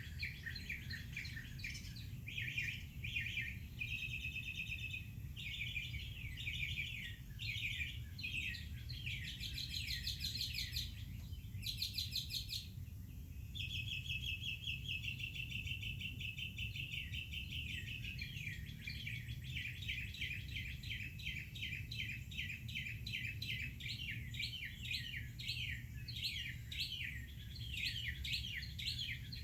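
Several songbirds singing and chirping at once, with fast repeated chirps and trills throughout, over a steady low rumble.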